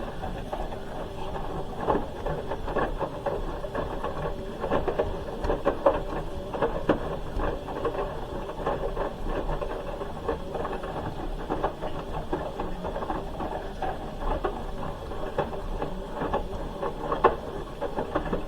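Hoover H-wash 300 Plus front-loading washing machine running its wash, the drum motor whirring steadily with frequent irregular clicks and knocks as the load tumbles.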